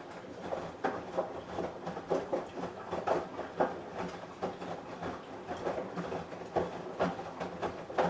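Samsung Eco Bubble washing machine drum turning the wash during a quick wash cycle: a run of irregular knocks and clatters, several a second, that stops abruptly near the end as the drum pauses.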